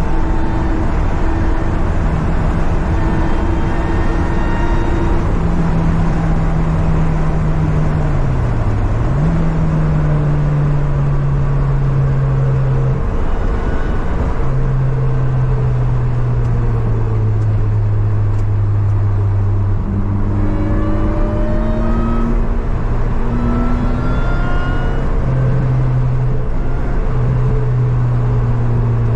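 Car engine under load on a race circuit. Its pitch holds mostly steady, dips briefly about nine seconds in, and climbs again a little after twenty seconds in as it accelerates.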